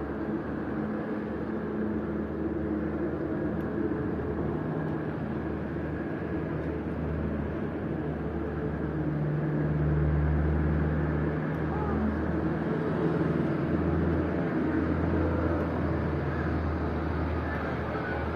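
A motor vehicle engine running with a steady low drone, growing somewhat louder about halfway through.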